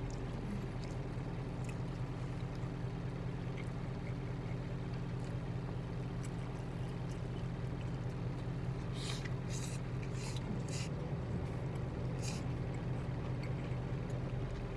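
Truck engine idling steadily, a low hum heard from inside the cab, with a few short clicks about two-thirds of the way through.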